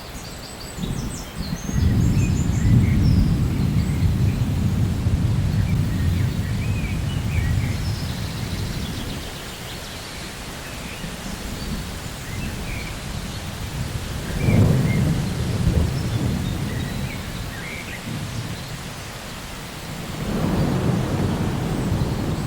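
Thunderstorm: rolling thunder over steady rain, in three long low rumbles, the first lasting several seconds. Birds chirp faintly and intermittently above it.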